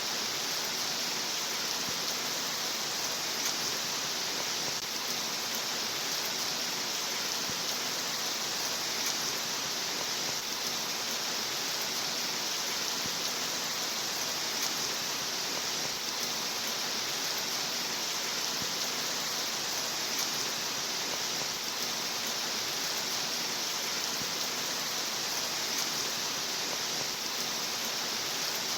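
Steady rain noise, an even hiss that neither swells nor breaks.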